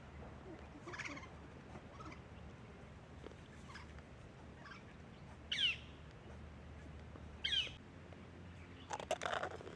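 A bird calling outdoors: two short calls that slide down in pitch, about two seconds apart, with fainter chirps before them. A quick cluster of clicks comes near the end.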